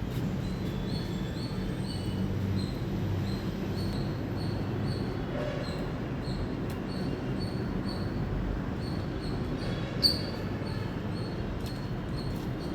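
Indian palm squirrel chirping: short high chirps repeating at about two a second, over a steady low background rumble, with a single sharp click about ten seconds in.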